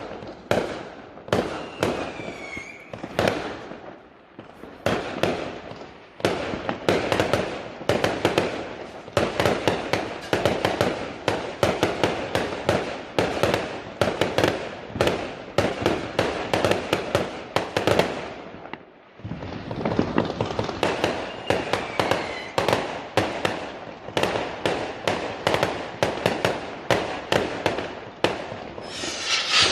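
Fireworks going off in a rapid run of bangs, several a second, over a haze of crackling. A falling whistle cuts through about two seconds in and again around twenty-two seconds, and the barrage pauses briefly at about nineteen seconds.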